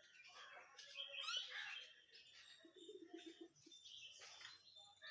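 Faint birds chirping, with short gliding whistles and a brief low rattling call about three seconds in.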